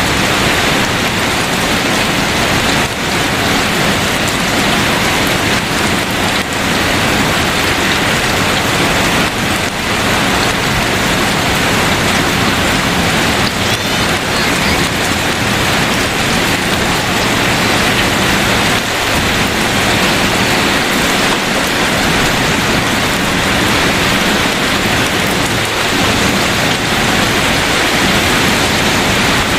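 Heavy rain falling steadily, a dense even hiss of rain on hard surfaces.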